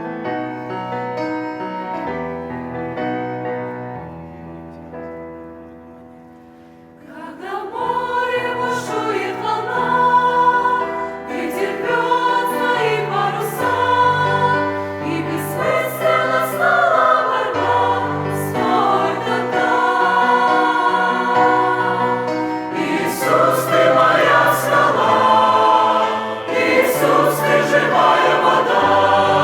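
Church choir singing a Russian-language hymn with keyboard accompaniment, entering about seven seconds in after a softly fading keyboard introduction.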